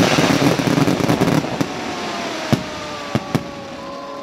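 Fireworks crackling and dying away, with a few separate sharp bangs in the second half.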